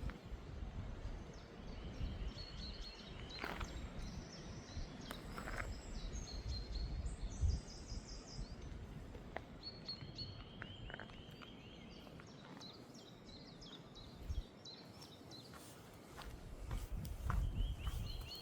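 Woodland songbirds singing: several short phrases of quickly repeated high chirps, one about two seconds in, a higher one around five to eight seconds in, and more around ten seconds in and near the end. A steady low rumbling noise runs underneath.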